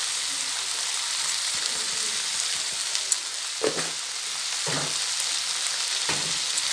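Spice paste and raw chicken pieces sizzling in hot oil in a kadai, a steady frying hiss. Three soft knocks come in the second half.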